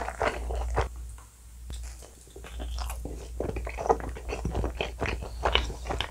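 Close-miked chewing of a mouthful of pizza: quick, uneven wet mouth clicks and smacks with some crunching.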